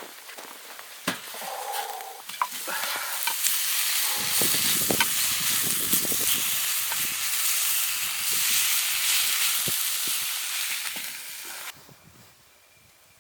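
Food sizzling and spattering in a hot pan, a dense hiss with many small pops that cuts off suddenly near the end.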